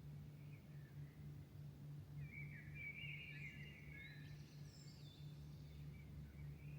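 Faint birdsong: a warbled phrase about two seconds in, then thin high notes, over a steady low hum.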